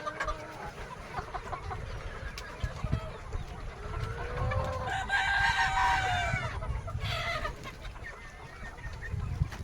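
A flock of Sonali desi chickens clucking, with a rooster crowing once about four seconds in, a long call of about two and a half seconds, and a shorter call about seven seconds in.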